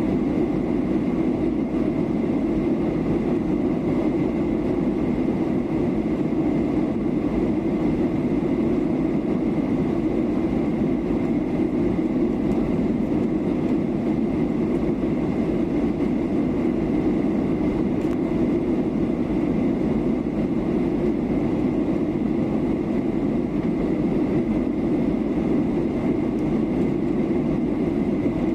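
Cabin noise of a Boeing 737-800 in flight: the steady rush of the CFM56 engines and airflow, an even low hum with a faint thin whine above it, unchanging throughout.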